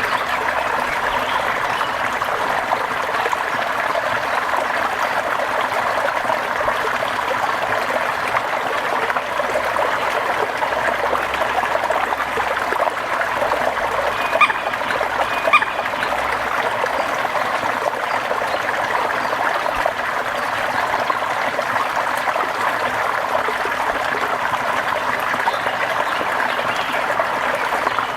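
Steady rain falling, an even dense hiss of drops, with two brief louder blips about halfway through.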